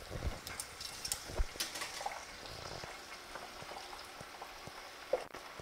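Chorizo sausages deep-frying in hot oil in a pot: a steady sizzle with many crackling pops of spattering oil, busiest in the first couple of seconds, and a sharp click about five seconds in.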